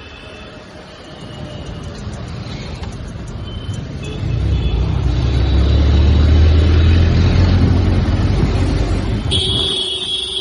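Motorcycle engine and exhaust pulling harder in traffic, growing louder about four seconds in and then easing off. Near the end a vehicle horn sounds for about a second.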